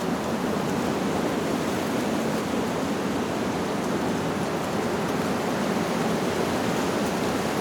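Steady, even rush of wind blowing through leaves, with no chime strikes.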